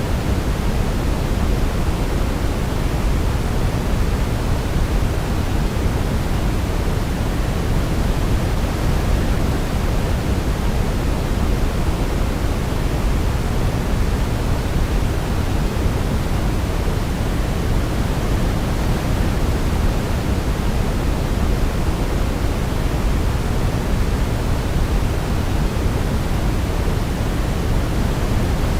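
Steady, unchanging white noise for baby sleep: an even hiss weighted toward the deep end, with no melody heard.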